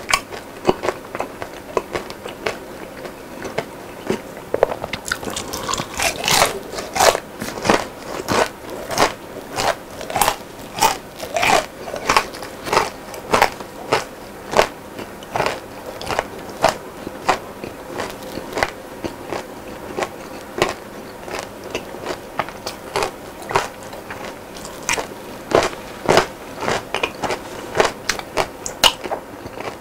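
Close-miked chewing of crispy fried food: a steady run of crunches, about two a second, getting louder and denser about six seconds in.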